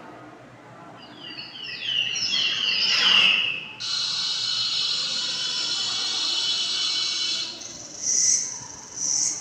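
Recorded wildlife calls played over a loudspeaker: a run of quick, high, falling chirps, then a steady buzzing high note that cuts off after about four seconds, then two short high calls near the end.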